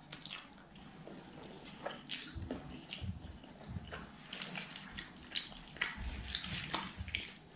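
Close-up wet mouth sounds of chewing with lips smacking, together with fingers squishing through rice on a steel plate: a string of short, irregular wet clicks.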